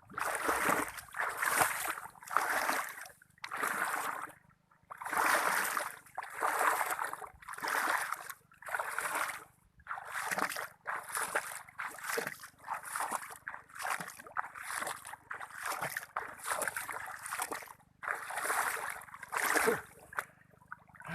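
A person wading through deep water, each stride making a splash in an even rhythm of about one and a half a second, with a few brief pauses.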